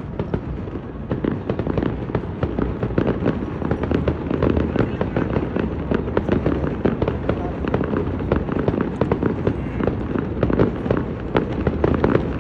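Aerial fireworks shells bursting in rapid, overlapping succession, a continuous barrage of sharp bangs and crackles over a steady rumble.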